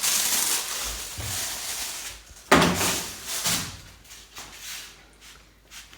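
A rushing hiss, then a sharp clunk like a door or lid being shut about two and a half seconds in, and a softer knock a second later.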